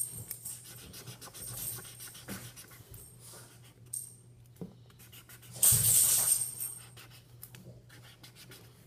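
Sharpie marker scratching and squeaking in quick strokes across stiff construction paper while colouring it in. About six seconds in a louder hiss lasts about a second.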